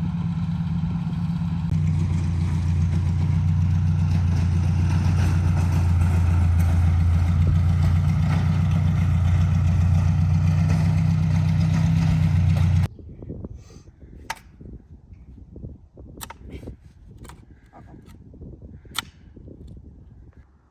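Tractor engine running steadily with its rototiller working the soil, a little louder from about two seconds in. It cuts off suddenly about thirteen seconds in, leaving a few faint scattered clicks and knocks.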